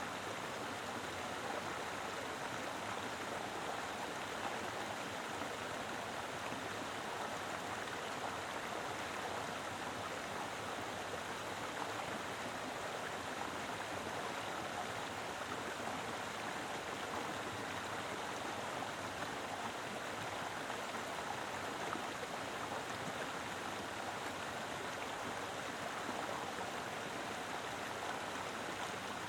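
Mountain river flowing briskly over rocks: a steady, full rushing of water with no breaks or changes.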